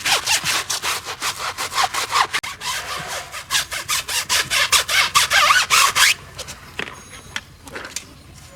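Stiff brush scrubbing in quick back-and-forth strokes, a rhythmic scratchy rasp that stops about six seconds in.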